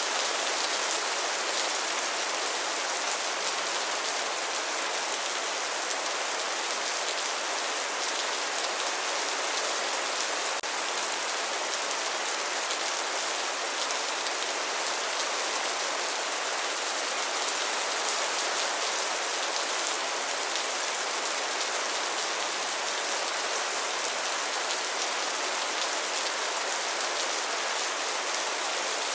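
Steady rain falling, an even hiss of drops with no thunder or breaks.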